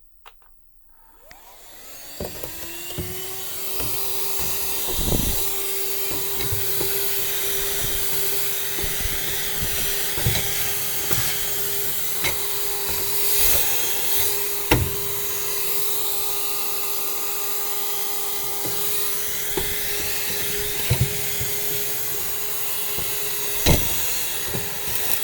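Vacuum cleaner switched on about a second in, its motor spinning up to a steady whine with a rushing hiss of air, while it cleans dust out of the inside of an upright spinet piano. Scattered knocks and clicks sound over it.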